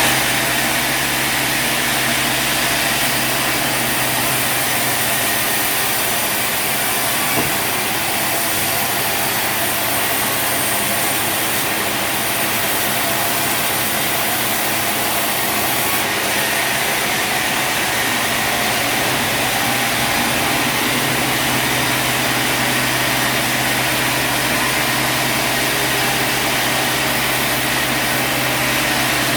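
Portable sawmill's engine running steadily, a continuous mechanical drone with no break.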